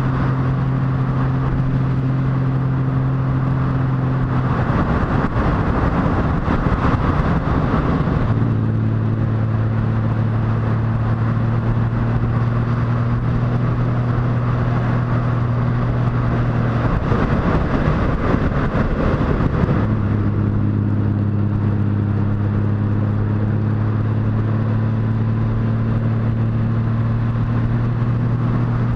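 Motorcycle engine running at a steady pitch under a haze of wind and road noise while riding. Twice the steady engine tone gives way for a few seconds to a rougher, noisier stretch, then settles again.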